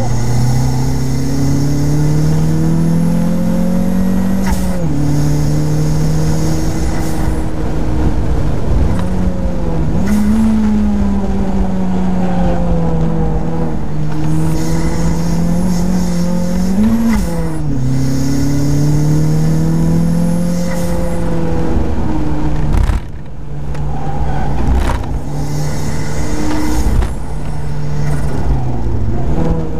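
Turbocharged Mazda MX-5's four-cylinder engine heard from inside the open-top cabin under hard acceleration, its note climbing and then dropping sharply at each gear change several times. The engine lifts off briefly about two-thirds of the way through, then pulls again.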